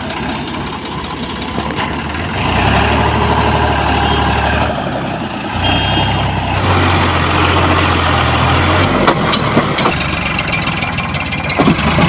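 Heavy diesel engine running, its speed rising and falling in steps every couple of seconds as it works. A few sharp knocks sound in the second half.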